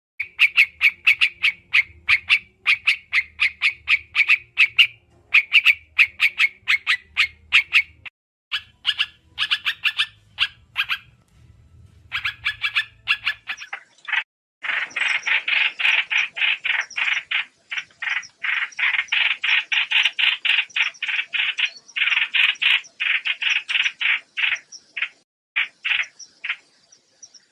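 Trao trảo bird calling, a fast chattering run of short repeated notes in quick trains, played as a lure call for bird trapping. The trains break off briefly about halfway through, then come back denser and louder.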